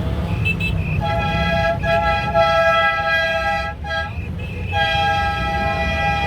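A horn sounds in long, steady, loud blasts, broken briefly about two seconds in and again near four seconds, over a steady low rumble.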